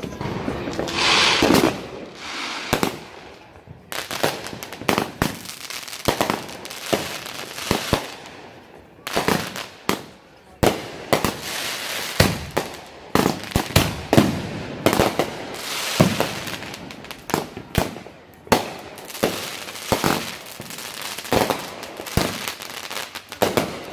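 Aerial fireworks going off overhead: a hissing rush about a second in, then a long, rapid run of sharp bangs and crackling bursts.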